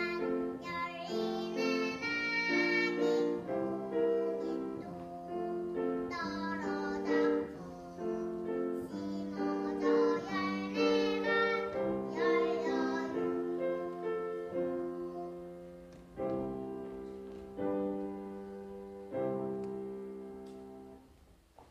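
A young child singing a Korean children's song over a piano accompaniment. The voice stops about two-thirds of the way through, and the piano plays a few closing chords that fade away.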